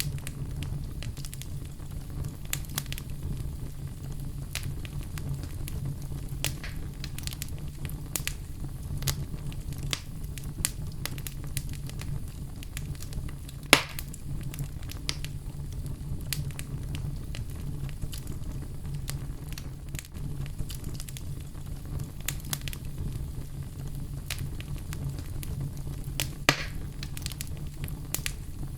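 Wood fire crackling, with a steady low rumble and many scattered snaps, including two louder pops about halfway through and near the end.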